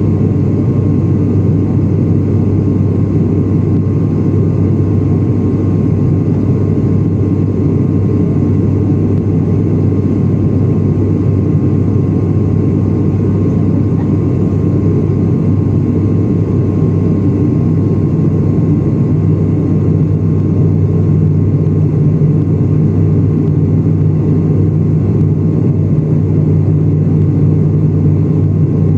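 Steady low drone of an airliner's engines and airflow, heard from inside the passenger cabin, with a slight shift in its hum about two-thirds of the way through.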